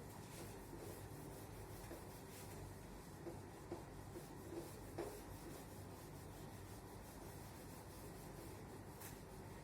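Faint writing sounds: scratchy rubbing strokes of a pen or marker on a writing surface, with a few light taps, over a low steady hum.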